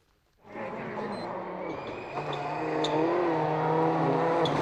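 Rally car engine fades in about half a second in and runs at speed, its pitch wavering with the revs and growing louder partway through, with a few short sharp ticks on top.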